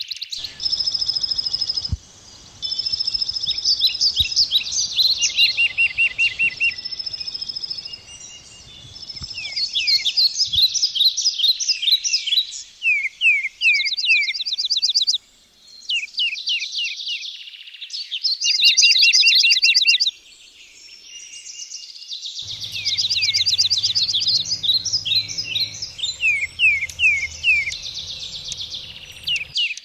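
Several songbirds singing together: steady whistled notes, fast trills and repeated falling sweeps. A low steady hum sits underneath during the last several seconds.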